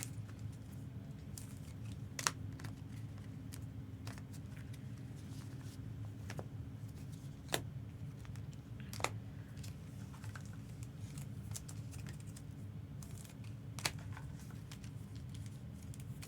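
Pokémon booster packs and cards being handled: light crinkling and a few sharp clicks spread apart, over a steady low hum.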